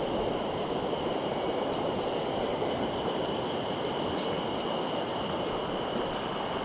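Mountain stream water rushing steadily, with a thin, steady high-pitched tone running above it.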